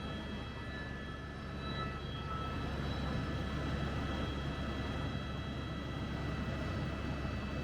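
Aircraft engine running steadily, a low drone with a faint high whine, growing a little louder about two seconds in.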